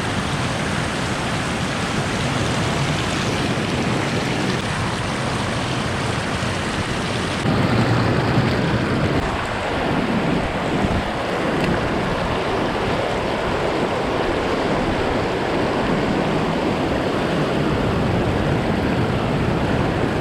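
Steady rushing of river water flowing below a dam, with wind rumbling on the microphone. The sound shifts abruptly about seven seconds in and gets fuller and more gusty in the low end.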